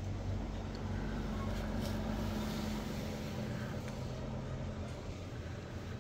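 2021 Dodge Challenger SXT's V6 engine idling: a steady low hum, with one of its tones dropping away about five seconds in. No siren is sounding.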